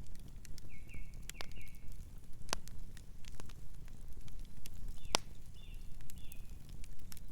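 Campfire crackling, with scattered sharp pops over a low steady rumble; the loudest pops come about two and a half and five seconds in. Short chirping calls of a nocturnal bird come twice, near the first second and again around the sixth.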